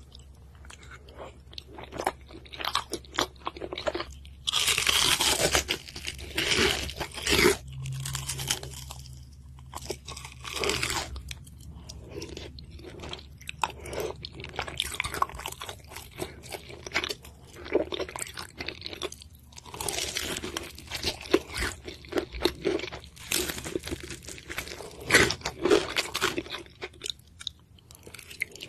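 Close-miked ASMR eating: chewy tteokbokki rice cakes in thick sauce and crisp fried food bitten and chewed, with wet mouth sounds and repeated crunches. The crunching is densest and loudest between about four and a half and seven and a half seconds in.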